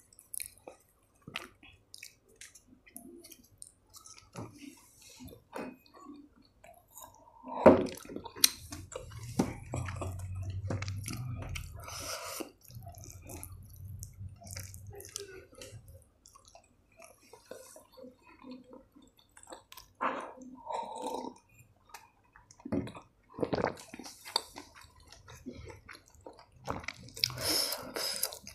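Close-up eating sounds of someone chewing paratha with vegetables: wet chewing and lip-smacking with irregular small clicks, and a sharper click about eight seconds in. A low hum runs for several seconds near the middle.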